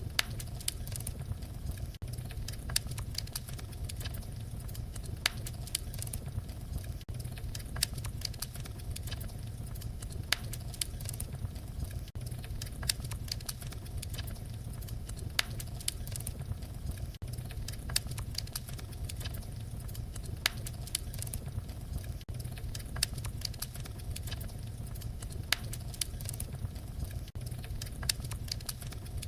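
Fireplace fire crackling: a steady low rumble of flames with irregular sharp pops and snaps.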